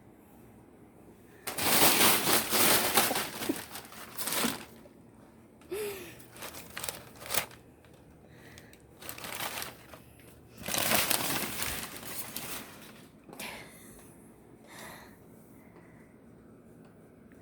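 Packing paper crinkling and rustling in irregular bursts as a cat pounces and rolls in it, loudest for a few seconds about two seconds in and again about eleven seconds in.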